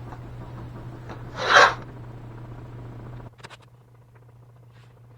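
Painter's tape being pulled off the roll, one short rasping rip about a second and a half in, followed by a few light clicks as the tape is handled and pressed down. A low steady hum underneath cuts out about three seconds in.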